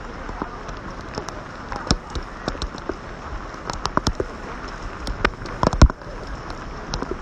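Steady rain with irregular sharp taps of drops striking close by, a cluster of louder taps about five to six seconds in.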